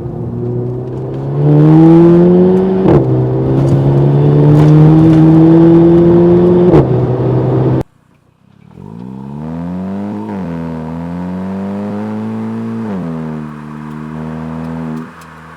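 2018 VW Golf GTI Mk7.5's turbocharged four-cylinder engine and exhaust under hard acceleration, loud, the pitch climbing and dropping sharply at two upshifts. About eight seconds in the sound cuts off suddenly, then the car is heard again more quietly, pulling up through the revs with a couple more shifts.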